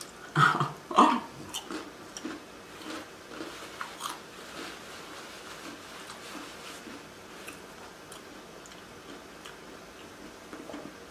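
Close-miked biting into a crunchy tortilla chip: two loud crunches about half a second and a second in, then chewing with smaller crunches and wet mouth sounds that thin out and fade.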